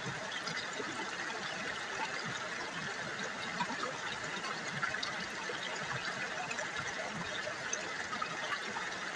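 River water babbling and trickling: a steady, even rush with many small splashes throughout.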